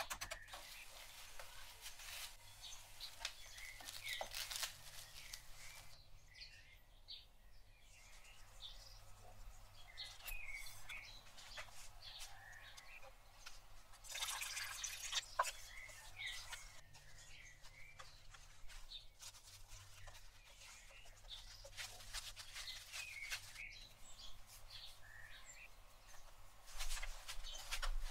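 Small birds chirping in the background, many short chirps throughout, with scattered clicks and knocks of food preparation, louder about halfway through and again near the end.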